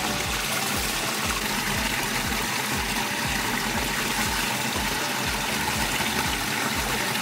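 Steady rush of flowing water, such as a stream or small cascade, with no clear strikes or pitched notes.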